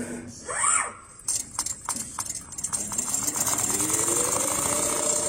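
Automatic CNC sewing machine: a short squeal near the start, then a few sharp mechanical clicks, then its motor speeds up into a steady high-speed run as it stitches.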